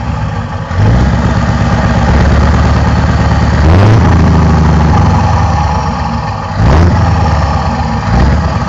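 Scania V8 truck engine running, its note rising briefly and getting louder four times, then holding steady between rises.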